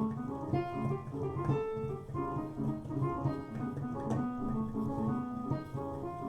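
Piano improvising a quick melodic line built on the whole-tone scale over a dominant chord, many short notes in a row over a low sustained accompaniment.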